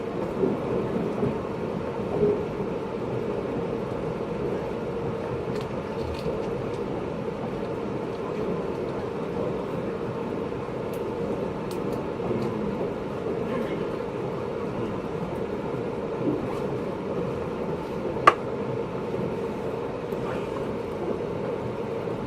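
Inside a JR 583-series electric sleeper train's motor car: a steady rumble with a constant hum, and a few small knocks, the sharpest a single click about 18 seconds in.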